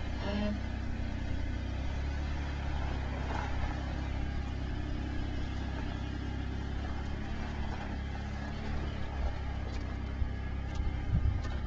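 4x4 vehicle's engine running steadily at low revs off-road, with a few knocks near the end.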